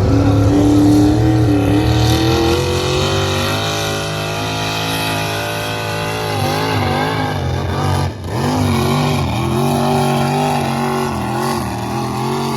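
Engine of a pulling vehicle running hard under load as it drags the sled. Its pitch climbs over the first couple of seconds, then holds, wavers, and dips briefly about eight seconds in before steadying again.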